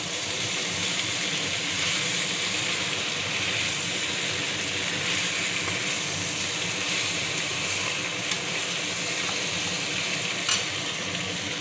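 Boiled pork and chopped elephant apple sizzling steadily as they fry in a pan, with a couple of light clicks in the second half.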